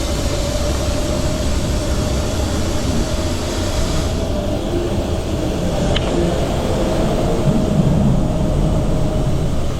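Wind rushing over the microphone and tyre noise from a bicycle being ridden, with a steady hum underneath and a single short click about six seconds in.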